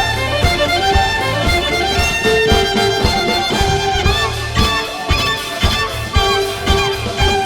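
Violin duo playing a funk-pop cover over a backing track with a steady drum beat and bass.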